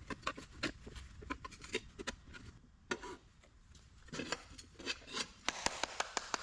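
A tire bead being levered onto a wheel rim by hand with tire irons: rubber and metal rub and scrape, with irregular sharp clicks. Near the end comes a quick run of evenly spaced clicks.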